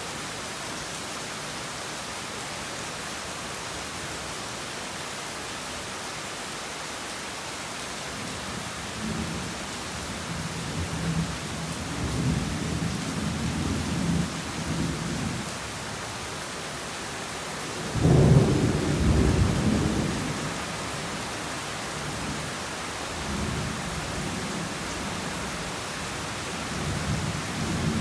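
Heavy rain falling with a steady hiss, while thunder rolls in: low rumbles build from about a third of the way in, the loudest peal breaks suddenly about two-thirds through, and softer rumbling continues to the end.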